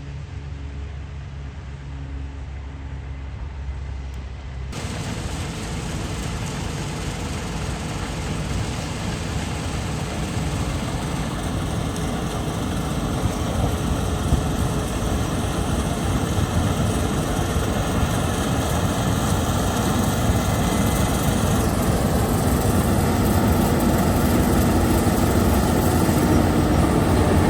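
Heavy farm machinery engine running steadily. About five seconds in, the sound changes abruptly to a fuller, noisier machine sound that slowly grows louder.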